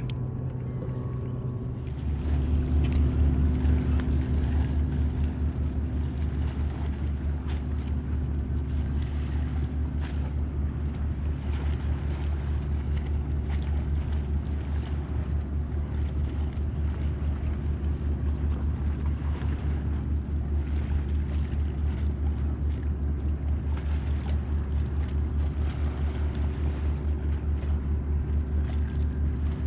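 A steady low motor drone with wind rumbling on the microphone. It gets louder about two seconds in, then holds even.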